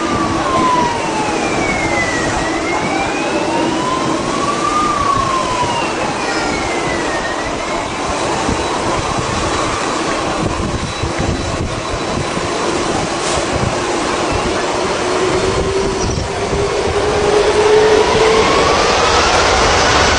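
Aircraft engine running with a steady rushing noise and a droning tone, with fainter whistling tones gliding up and down. Over the last few seconds the drone rises in pitch as the engine speeds up.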